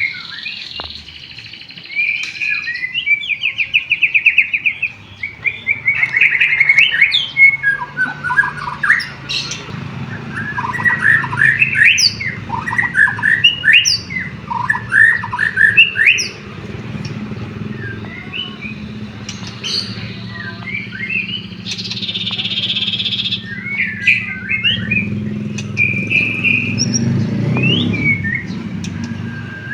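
White-rumped shama (murai batu) singing a fast, varied song of trills, whistled sweeps and short chirps, including canary-style phrases. A steady low hum runs underneath, stronger from about a third of the way in.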